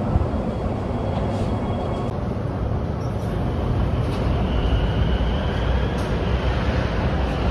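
Beijing Subway train running, heard from inside the car: a steady rumble of wheels on track, with a faint high whine for a second or two around the middle.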